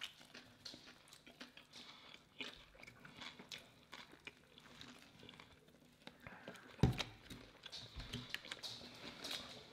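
Faint chewing and crunching of a fried spicy chicken sandwich, with scattered crisp clicks and one louder low thump about seven seconds in.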